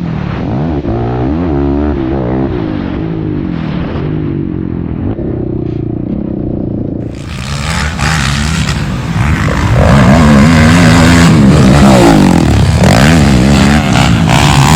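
Racing ATV engines revving, their pitch rising and falling as the quads accelerate and back off. About seven seconds in the sound cuts to a louder, closer recording with several engines revving at once.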